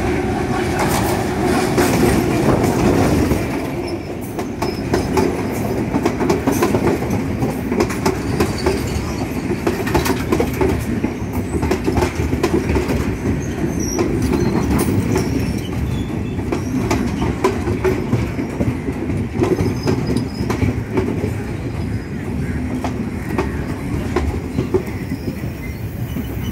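A red diesel multiple-unit passenger train runs along the platform, its carriages passing close by with a steady rumble of engine and wheels. Wheels click over the rail joints all the way through.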